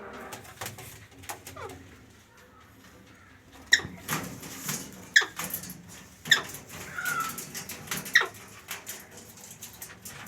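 A pet parrot calling: four sharp squawks that drop steeply in pitch, about one to two seconds apart, starting a little before halfway, with a short whistle between the third and fourth. Fainter falling calls come earlier.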